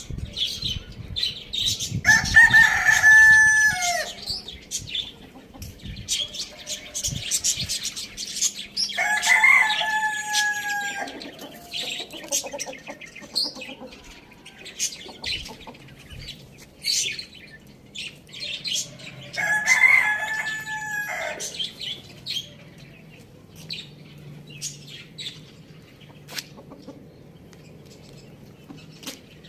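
Rooster crowing three times, each crow about two seconds long, roughly seven to ten seconds apart.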